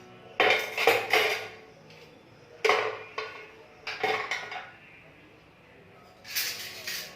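Dishes and metal utensils clattering as they are handled and set down, in four short bursts of clinks and knocks.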